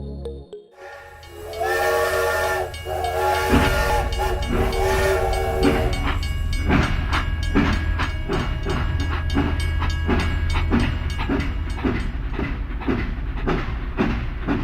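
A train whistle blows three chord blasts, then a steady clacking rhythm of a running train follows, about two to three clacks a second, over a low rumble.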